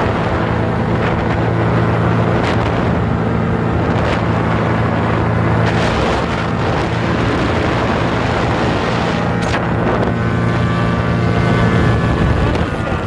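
Paramotor engine and propeller running steadily in flight, holding an even pitch.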